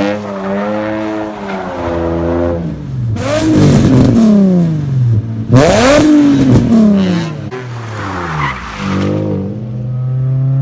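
Car engine running through catless downpipes: idling, then revved hard twice, each rev rising sharply and falling back, before settling to a steady idle near the end.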